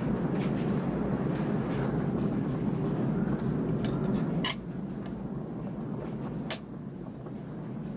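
A dense, steady low rumble that drops off noticeably about halfway through, with two short sharp cracks, one as it drops and another about two seconds later.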